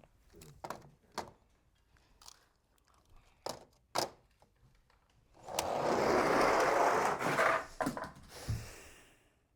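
Die-cast toy monster trucks racing on a toy track: a few light clicks and knocks, then about two seconds of steady rolling noise as the trucks run down the track, ending in a few clattering knocks as they jump and land.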